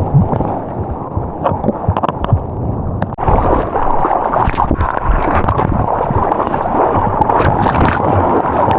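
Surf water rushing and sloshing around the camera, with wind buffeting the microphone and scattered sharp knocks and splashes.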